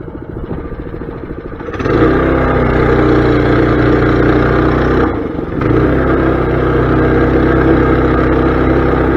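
Mini bike's small engine idling, then throttled up about two seconds in and running steadily at speed. It eases off briefly around the middle, then picks back up.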